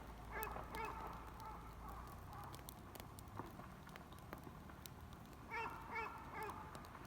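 A bird calling outdoors in short, harsh honking calls: two near the start and three more in quick succession near the end, with faint scattered clicks between them.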